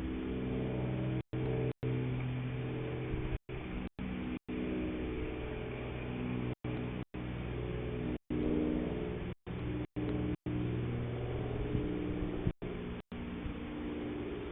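A steady low humming drone of several held tones, shifting slightly in pitch, broken again and again by brief moments of total silence where the recording drops out.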